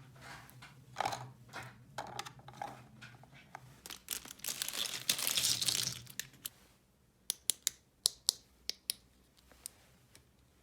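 Small plastic toy pieces being handled, with scattered light clicks and knocks. About four seconds in there is a stretch of crinkling or tearing, like plastic packaging, followed by a quick run of sharp little clicks.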